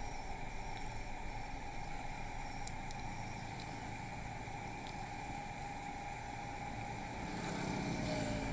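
Room tone: a steady low background hiss with a faint constant hum, no recitation. It grows slightly louder near the end.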